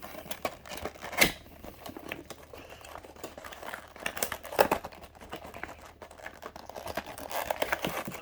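Packaging of a boxed 1:200 scale model airplane being opened and handled by hand, with scattered clicks and knocks; the loudest comes about a second in and another a little past halfway.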